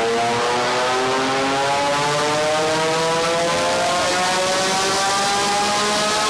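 Porsche 718 Cayman GT4 RS's naturally aspirated 4.0-litre flat-six, fitted with a Fi Exhaust valved muffler and catless downpipe, pulling hard under load on a dynamometer, its pitch rising steadily as the revs climb. It is very loud, loud enough to make the recording sound rough.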